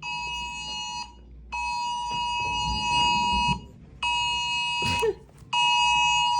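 A phone's emergency alert tone for a tornado warning: a harsh steady two-tone beep near 1 kHz, sounding in four blasts with short gaps between them, the second one about two seconds long.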